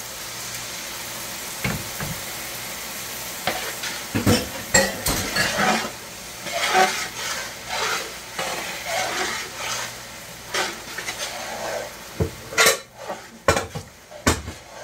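Blended tomato poured into hot oil with onions and green pepper in a large metal pot, sizzling, then a spoon stirring and scraping through the pot. A few sharp knocks near the end.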